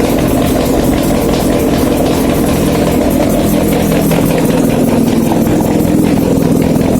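Mitsubishi 4G15 inline-four petrol engine running steadily at idle on an engine test stand.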